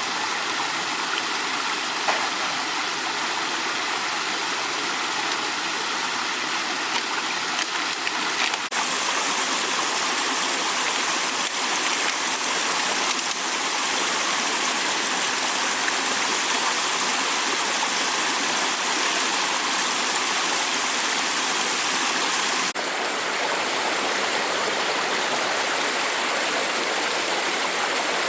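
Steady rush of flowing water, like a stream or fast runoff. Its tone shifts abruptly twice, about a third of the way in and near the end.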